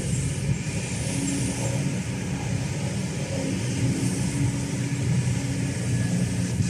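Kobelco SK210LC hydraulic excavator's Hino J05E diesel engine running steadily under work, a low hum with a higher tone that comes and goes every second or two.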